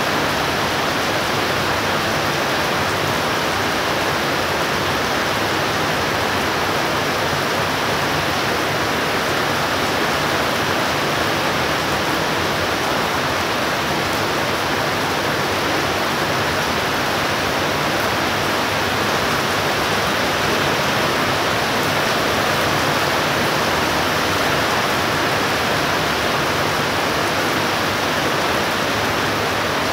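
Heavy downpour during a thunderstorm: dense rain falling steadily, an even, unbroken hiss with no thunder.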